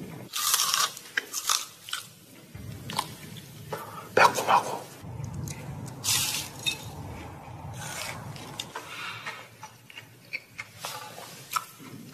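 Crispy, crumb-coated fried chicken being bitten into and chewed, with a series of sharp crunches. The loudest come about half a second in and around four seconds in.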